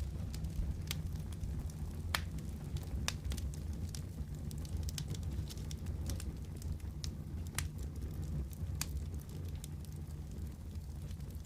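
Wood fire crackling in a fireplace: sharp pops at irregular intervals, roughly one a second, over a steady low rumble.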